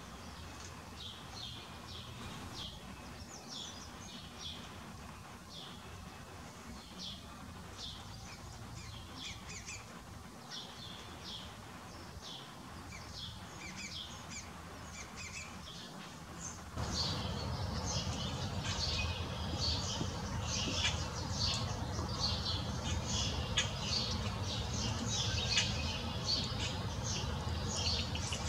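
Small birds chirping: a steady stream of short, high chirps. About two-thirds of the way in, the chirping turns denser and louder over a low outdoor rumble.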